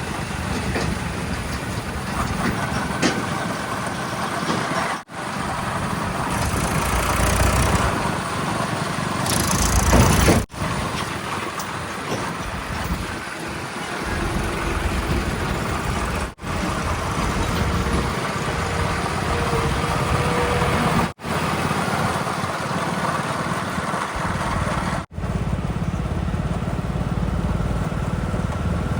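Heavy vehicle engines running and idling across several short clips that change abruptly about every five seconds. A louder rush of noise comes around ten seconds in.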